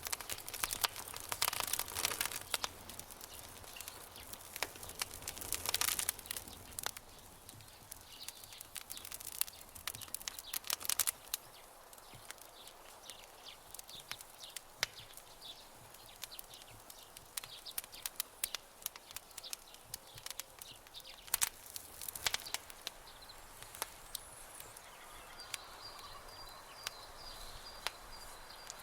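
Campfire crackling: irregular sharp pops and snaps over a soft steady hiss, with a few denser bursts of crackle. Near the end a thin, high, steady tone joins in.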